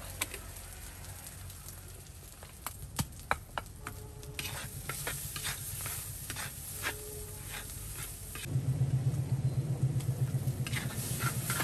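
Spice paste frying and sizzling in oil in a wok, with a stainless steel spatula scraping and tapping on the pan as it is stirred. A louder low rumble comes in about eight and a half seconds in.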